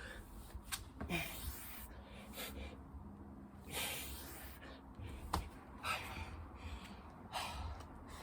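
Hard, gasping breaths of a person exhausted from strenuous exercise, a loud breath every second or so. A couple of sharp clicks are heard, over a low rumble.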